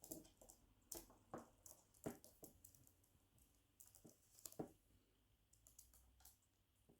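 Quaker parrot nibbling food with its beak: faint, irregular small clicks and crunches, a few a second at first, then sparser.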